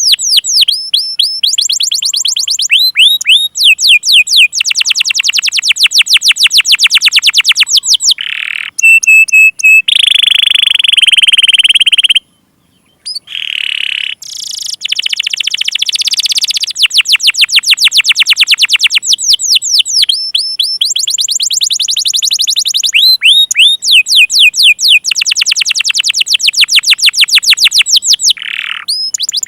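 Domestic canary song: loud, fast trills of quickly repeated notes that switch to a new trill pattern every second or two. It breaks off suddenly for about a second near the middle. This is a canary lure song of the kind played to coax silent or young canaries into singing.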